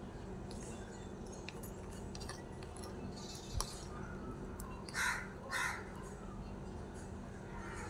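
A bird gives two harsh calls about half a second apart, a little past the middle, over a steady outdoor background. A single light click comes shortly before them.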